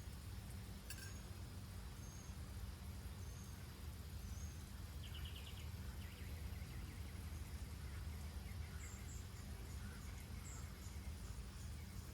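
Faint, scattered high chirps and a brief rapid trill about halfway through, from small birds or insects, over a steady low outdoor rumble.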